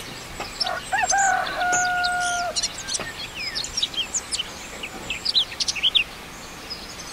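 A rooster crowing once, a few short rising notes and then one long held note, followed by songbirds chirping rapidly.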